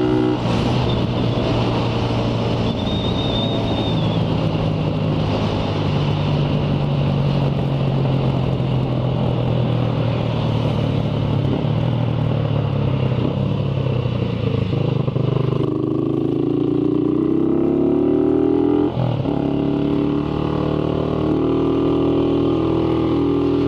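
Motorcycle engine running under way, with wind rushing over the microphone. In the second half the engine pitch climbs under acceleration, drops sharply for a gear change, then climbs again.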